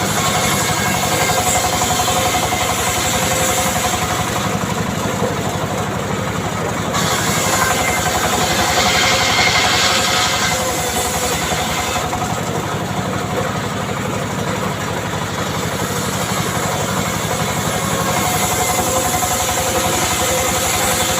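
Small engine of a wood saw running steadily. A brighter, hissier stretch comes in for a few seconds near the middle.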